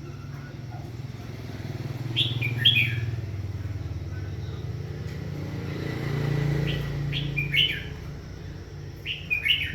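Small birds chirping in short pairs of calls, three times, over a low steady engine hum that swells briefly about six seconds in.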